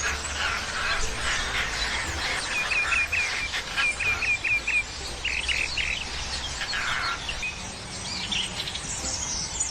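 Several small birds chirping and calling over one another, with two runs of quick repeated chirps about three to five seconds in.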